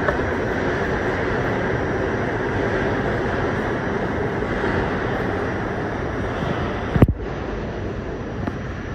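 R68 subway train running, a steady rumble and rush of the cars in motion. About seven seconds in there is one sharp click, after which the noise is somewhat quieter.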